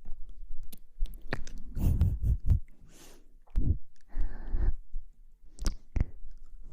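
Close-miked ASMR trigger sounds: irregular crisp crackles, clicks and short rustling swishes, with a longer swish about two seconds in and another a little past four seconds.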